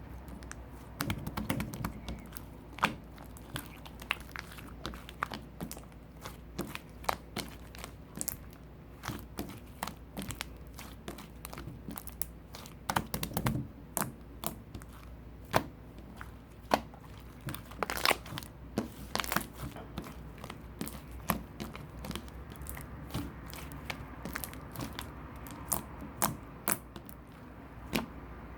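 Slime being squished, poked and stretched by hand, making irregular crackling clicks and small pops, with a denser run of loud pops about two-thirds of the way through.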